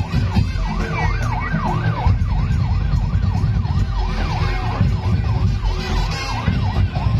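A siren-like yelping tone, most likely played on a band keyboard, sweeping rapidly up and down several times a second over a steady beat of drums and bass.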